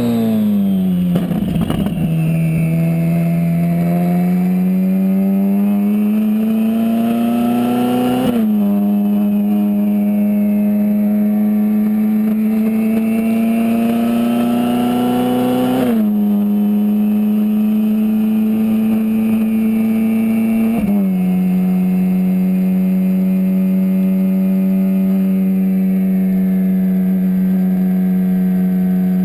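Twin-turbocharged Ferrari 458 Spider's 4.5-litre V8 pulling through the gears at moderate revs: the engine note climbs slowly and drops abruptly at upshifts about 8 and 16 seconds in, then, after a small step up in pitch a few seconds later, holds steady.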